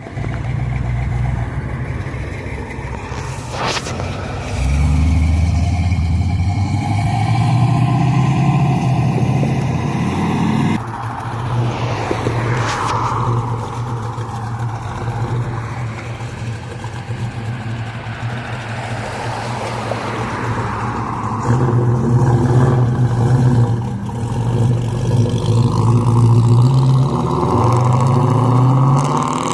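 Car engines running and revving, their pitch shifting up and down, with rising revs near the end.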